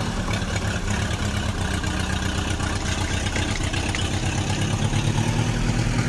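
Heavy vehicle engine running steadily with a fast low throb, as a construction-machine sound effect.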